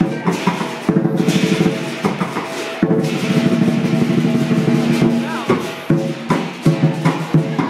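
Lion dance percussion: a Chinese drum beaten in fast rolls together with clashing cymbals and a gong, briefly breaking off about a second in and again near three seconds.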